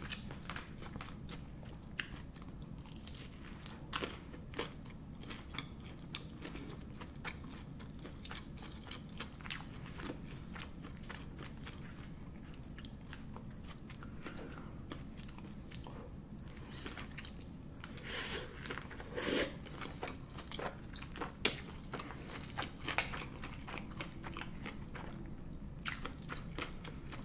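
Close-up eating sounds: biting and chewing fried seaweed rolls and chewy rice cakes, with many short crunches and mouth clicks and a few louder crunches past the middle, over a steady low hum.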